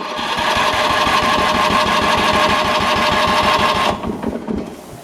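Electric starter cranking a Robin EY44-2B gasoline engine, a steady whine with regular pulses of about ten a second. The cranking stops after about four seconds, a few uneven beats follow, and then it goes quiet without the engine running on.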